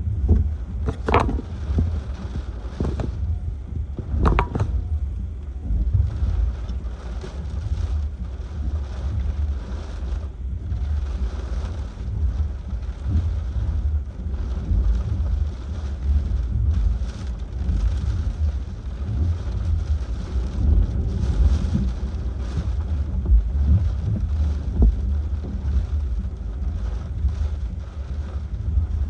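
Hurricane-force wind gusting and buffeting the microphone in a constant deep rumble, with two sharper gusts about a second in and again about four seconds in.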